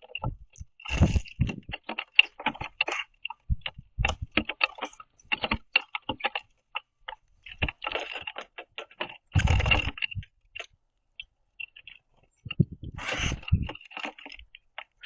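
Birds pecking and cracking sunflower seeds on a wooden platform feeder: irregular sharp taps and clicks, some with a dull thump from the wood. Two longer rustling bursts come, one about nine and a half seconds in and one near thirteen seconds.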